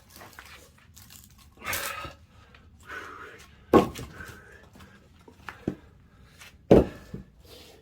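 Split firewood being handled and set aside: a scrape of wood on wood, then two sharp wooden knocks about three seconds apart.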